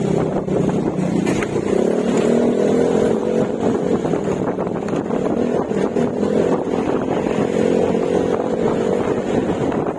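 Yamaha Mio Gravis scooter's single-cylinder engine running steadily at road speed through an aftermarket Akrapovic exhaust with silencer. The engine note lifts slightly about two seconds in, then holds.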